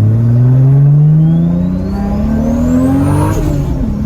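Turbocharged Toyota Supra Mk4 inline-six pulling hard at full throttle, heard from inside the cabin: the engine note climbs steadily with a high turbo whistle rising above it. About three and a half seconds in the revs drop at a gear change and begin climbing again.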